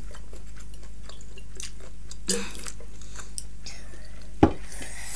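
A child chewing a mouthful of black bean noodles, with soft mouth and eating noises over a steady low hum. A single sharp knock comes a little past four seconds in.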